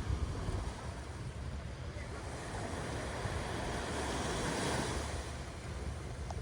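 Ocean surf washing on a shore, with a wave swelling up and washing in about four seconds in, and wind rumbling on the microphone.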